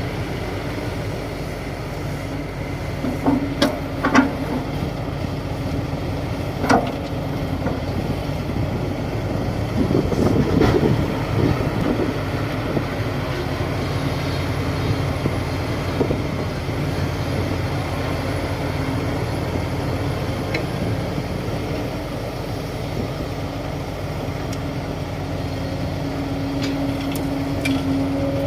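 Komatsu D58 bulldozer's diesel engine running steadily, with a few sharp metallic clanks in the first seven seconds and a louder surge about ten seconds in.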